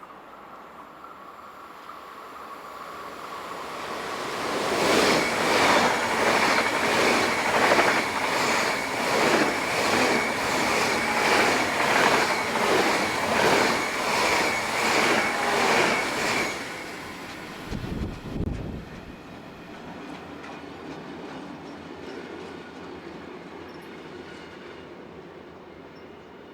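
Rhythmic mechanical clatter, a little over one beat a second, with a steady high whine over it. It swells up over a few seconds, holds loud, then cuts off abruptly about two-thirds of the way in. A low thump follows, then a faint steady rumble.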